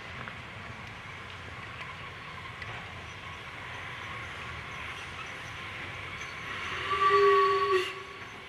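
Steam locomotive running with a steady rumble, then sounding its whistle in one short blast lasting about a second, near the end.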